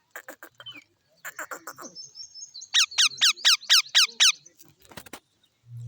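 Green parrot calling: a few short chattering calls, then a quick run of about eight sharp, steeply falling screeches.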